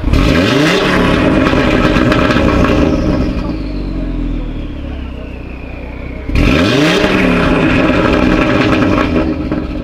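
Audi RS3 8V's turbocharged 2.5-litre five-cylinder engine, breathing through a Milltek exhaust, revved hard twice while parked. Each rev jumps up suddenly, holds loud for about three seconds, then drops back with a falling whine.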